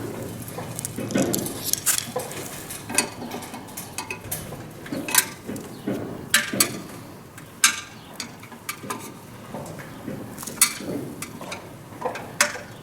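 Irregular metallic clinks and knocks as metal fan parts and tools are handled and fitted together during assembly of a grain aeration fan.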